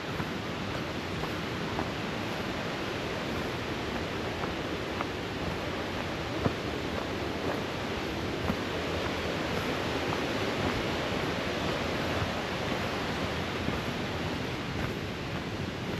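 Tischer Creek's water rushing steadily over rocks, a continuous rush that swells slightly about two-thirds of the way through, with a few faint ticks.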